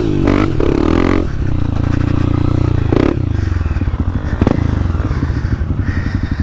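Dirt bike engine running, easing off from higher revs to a low, pulsing putter partway through, with a couple of short knocks.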